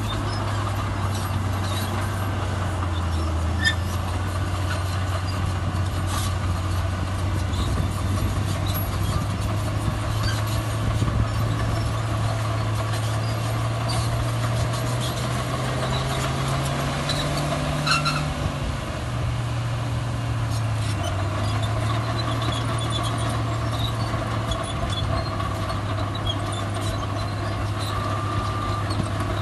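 Diesel engine of heavy earthmoving machinery running steadily under load. The engine's pitch climbs slowly past the middle and drops back a little over halfway through, with scattered faint clanks over it.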